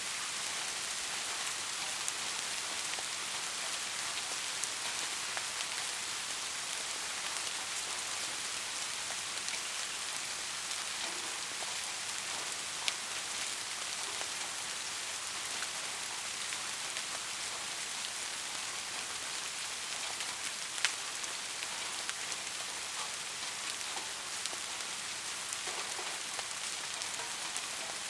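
Steady heavy rain falling, an even hiss with a couple of sharper single drop hits, about 13 and 21 seconds in.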